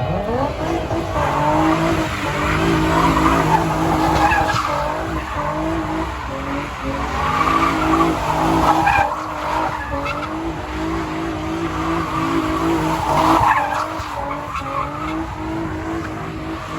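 A car drifting: its engine held at high revs with the throttle dipping and coming back again and again, while the tires squeal and skid in swells.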